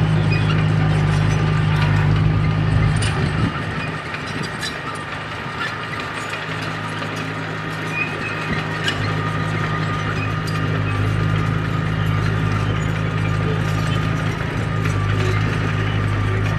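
Komatsu D31P crawler bulldozer at work: a steady diesel drone with a thin whine above it and scattered clanks from the steel tracks. The engine eases off about four seconds in, then slowly builds back up.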